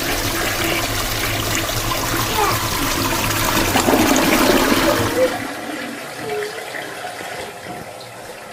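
Toilet flushing: a loud rush of water that dies away about five seconds in, leaving a quieter run of water.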